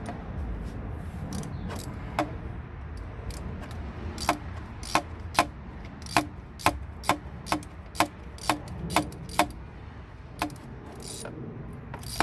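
Hand ratchet clicking in slow, even strokes, about two clicks a second for some five seconds, as a throttle-body bolt is turned; a few single clicks come before and after.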